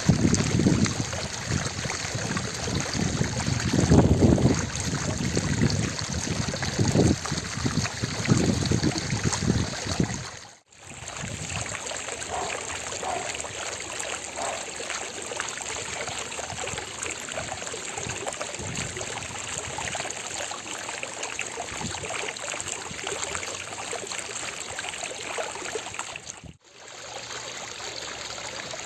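Fountain water splashing and trickling in a steady rush. Low rumbling surges run through the first third. The sound drops out briefly twice, about ten seconds in and near the end.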